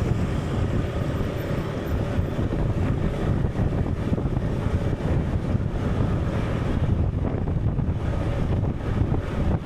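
Steady low rumbling ambience of wind and sea, even and unbroken throughout.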